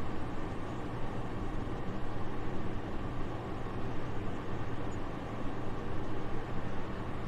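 Soft, steady wind: an even, airy rush with most of its weight low down and no gusts.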